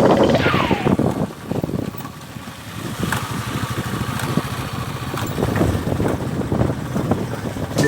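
A falling whoosh in the first second, then a motorcycle on the move with steady wind noise on the microphone.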